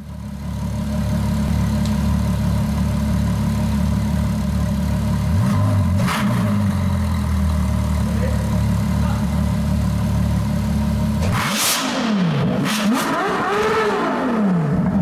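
Ferrari LaFerrari's V12 engine running steadily at idle, then from about eleven seconds in revved in several quick blips, its pitch rising and falling with each one.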